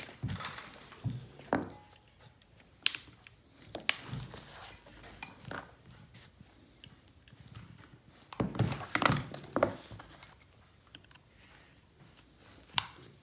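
An iPod Video and small tools being handled during a battery replacement: sharp clicks and taps with scraping, busiest about eight to ten seconds in.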